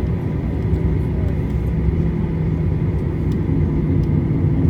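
Steady cabin noise inside a Boeing 737-800 on the ground: a low rumble with a steady hum from the aircraft's engines and systems.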